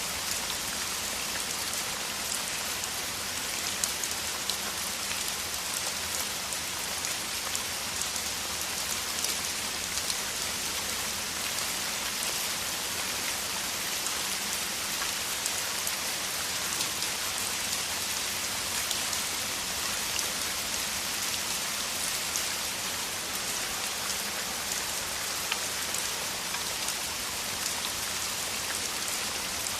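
Heavy rain falling steadily in a downpour: an even hiss with many individual drops ticking and pattering on surfaces.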